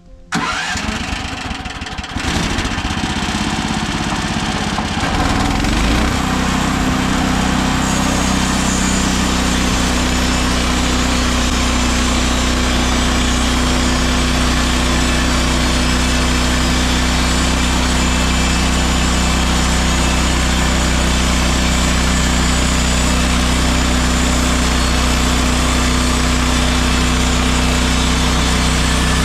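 Engine of a MechMaxx SM32 portable bandsaw sawmill starting up and coming up to speed over the first few seconds, then running steadily at an even pitch.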